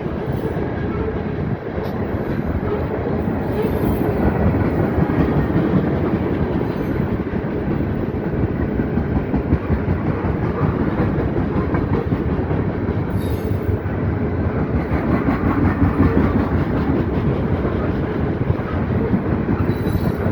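CSX freight train cars rolling past at a grade crossing: loud, steady rumbling of the wheels on the rails with rapid, irregular clicking.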